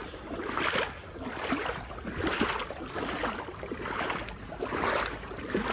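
Legs wading through knee-deep floodwater, each stride pushing through the water with a swishing splash, about one a second.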